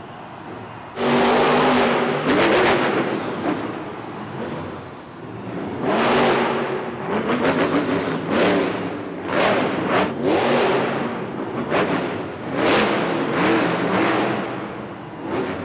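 Grave Digger monster truck's supercharged V8 engine revving in repeated surges, its pitch swinging up and down again and again as the throttle is opened and closed.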